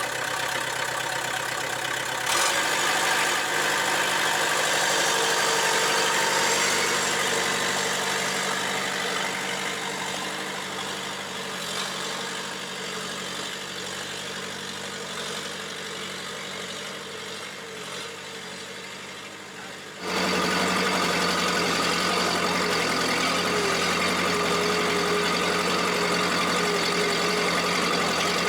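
Bobcat 773 skid steer's Kubota four-cylinder diesel engine running steadily just after start-up. Its tone shifts about two seconds in, then it turns abruptly louder and stays steady from about twenty seconds in.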